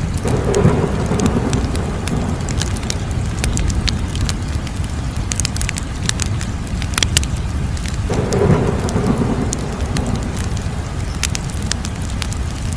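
Fire crackling, with frequent sharp pops and snaps over a steady low rumble. The rumble swells twice, at the start and about two-thirds of the way through.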